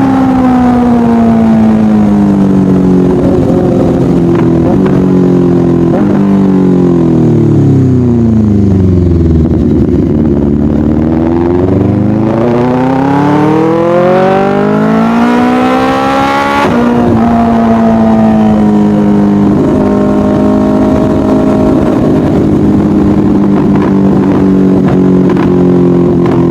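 Motorcycle engine slowing down, its pitch falling steadily for about ten seconds, then accelerating with a rising pitch. About two-thirds of the way through the pitch drops suddenly, and the engine then runs at a fairly steady speed.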